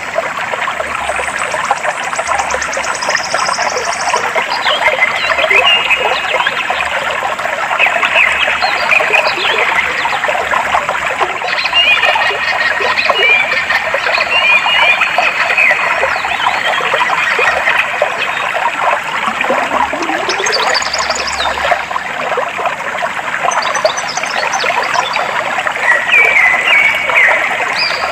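Clear water flowing and trickling steadily, with birds chirping and trilling over it at intervals.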